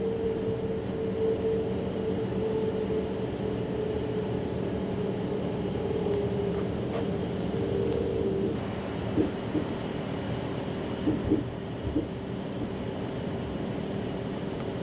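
Passenger train running along the track: a steady rumble with a droning tone, and a few short knocks about nine to twelve seconds in.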